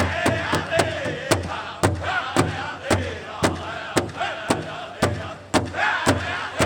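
Powwow drum group playing a chicken dance song: a big drum struck in an even beat, about two strikes a second, under high, wavering group singing.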